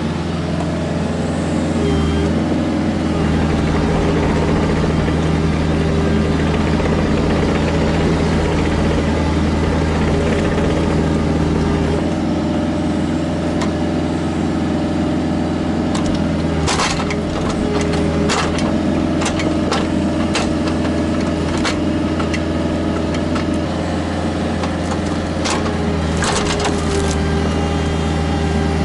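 Kubota KX121-3 mini excavator's diesel engine running steadily under work. Sharp cracks and knocks come in clusters past the middle and again near the end, typical of wood snapping and the bucket and thumb striking stumps and logs.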